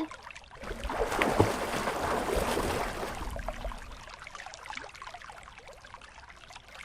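Sloshing and splashing of water as someone swims or wades through a pond. It swells about a second in, then fades to a faint trickle.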